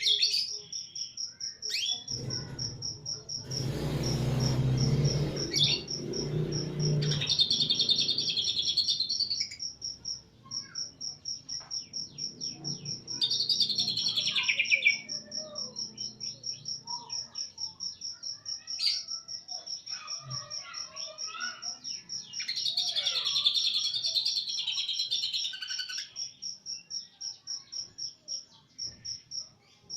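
Green leafbird (cucak ijo, East Javan type) singing in loud bursts of rapid warbling phrases, three long bursts with scattered shorter calls between them. A steady, fast-pulsing high chirring runs underneath the whole time.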